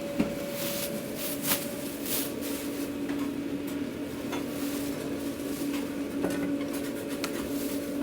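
Takeout order being packed: small clicks, knocks and rustles of containers and sauce cups, the sharpest a click just after the start, over a steady mechanical hum.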